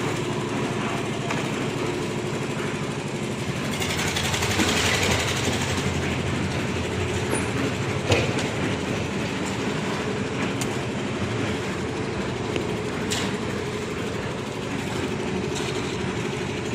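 Engine of a concrete mixer-and-lift machine running steadily under load, with a few sharp metallic knocks from the machine along the way.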